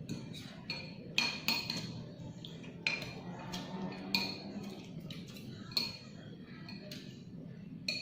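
A spoon clinking against a bowl of bakso while eating: about seven sharp, ringing taps at irregular intervals.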